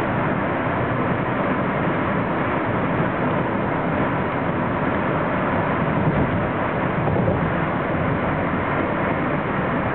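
Metro-North M3 electric multiple-unit train running at speed: a steady, even rush of wheel-on-rail and running noise.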